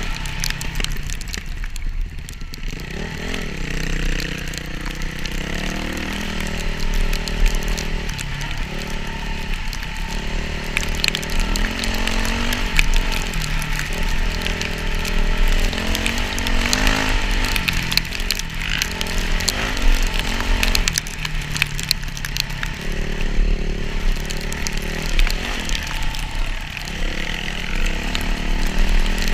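Motocross dirt bike engine running and revving up and down over and over, its pitch rising and falling.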